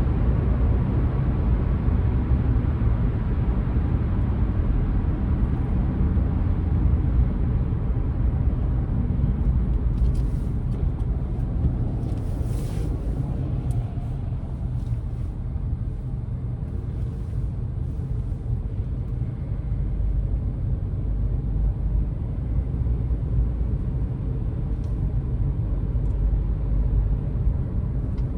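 Car driving: a steady low engine and road rumble, with a few faint ticks and a brief hiss about halfway through.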